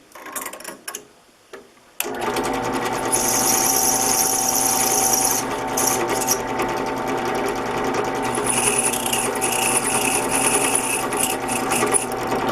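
A few light handling clicks, then a drill press switched on about two seconds in, its motor running with a steady hum. Twice a higher-pitched hiss rises over the hum as the 9/64 in drill bit is lightly touched into thin sheet metal to countersink a screw hole.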